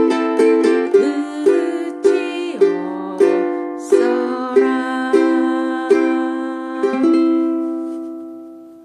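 Ukulele strummed in a waltz rhythm, chords about half a second apart. A final chord about seven seconds in is left to ring and fade out.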